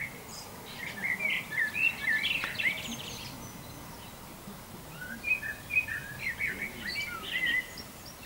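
A songbird singing two phrases of quick, warbling whistled notes, the first about a second in and the second about five seconds in.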